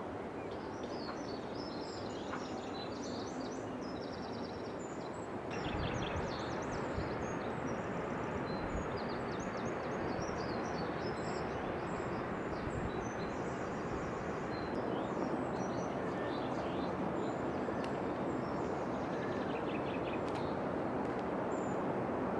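Birds chirping and twittering over a steady rushing noise, which gets louder about five and a half seconds in.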